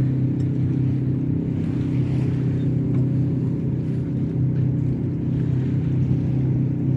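Honda 20 hp four-stroke outboard motor running steadily at a constant speed, pushing a light aluminum boat, with water and wind noise under the engine's drone.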